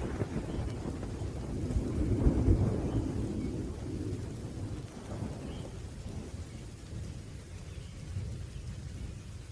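Thunder rumbling low and rolling, swelling about two seconds in and then dying away, over steady rain.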